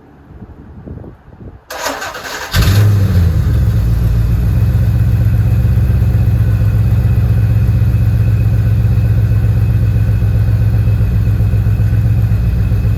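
Porsche 928 GTS 5.4-litre V8 being cranked by its starter and catching about two and a half seconds in. It flares briefly, its pitch falling, then settles into a steady idle with its exhaust leaks now fixed.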